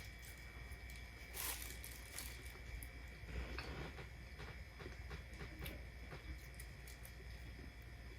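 Faint close-up eating sounds: a person chewing food, with scattered small wet clicks and smacks.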